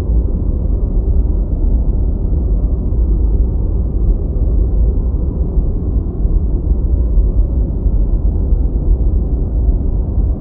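Deep white noise: a steady, even noise weighted heavily toward the bass, with little above the low mids and no hiss at the top.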